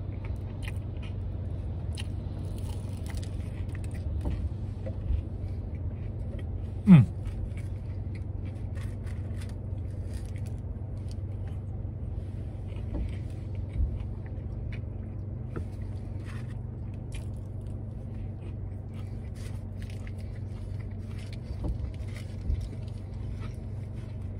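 Chewing and small mouth clicks of someone eating a fried shrimp po'boy, over a steady low hum in the car cabin. About seven seconds in there is one brief, loud sound that drops quickly in pitch.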